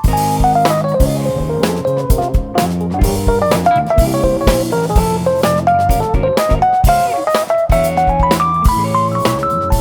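Live jazz-fusion band playing: electric guitar running a fast melodic line of stepping notes over sustained chords, with drum kit.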